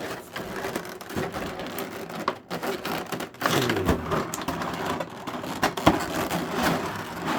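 Rigid plastic clamshell packaging being pried open and worked free from its tape: irregular crackling, creaking and clicking, with a sharp snap about three-quarters of the way through.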